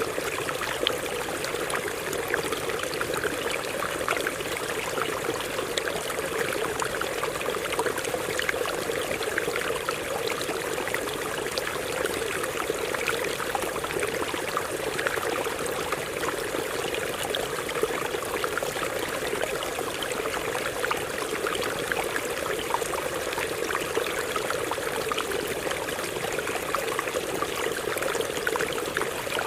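Stream water running over rocks: a steady rush with many small splashes throughout, unchanging in level.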